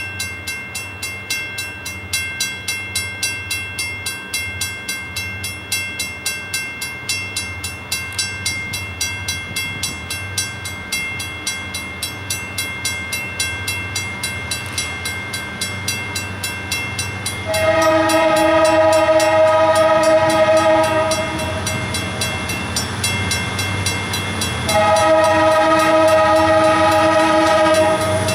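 Grade-crossing bell ringing steadily at a few strokes a second, then two long blasts of the freight locomotive's multi-chime air horn, about three seconds each, for the crossing.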